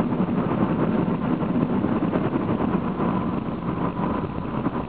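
Steady road and engine noise inside a Honda car cruising on the highway, with a faint steady whine joining about three seconds in.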